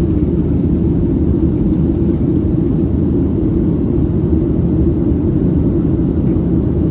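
Boeing 737-700 airliner's CFM56 jet engines and airflow, a steady low rumble with no change in pitch or level.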